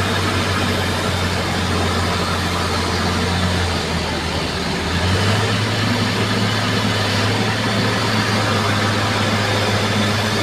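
Bulldozer's diesel engine running steadily; its note sags briefly about four seconds in and picks up again about a second later.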